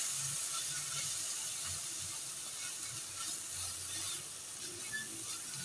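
Shredded chicken and sauce frying in oil in a stainless steel pan, a steady sizzling hiss, while a silicone spatula stirs it with small scraping ticks against the pan that come more often from the middle on.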